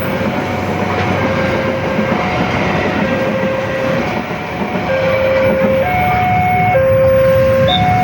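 A train running past with a steady rumble and rail clatter. Over it, a steady two-note tone switches back and forth between a low and a high pitch about once a second.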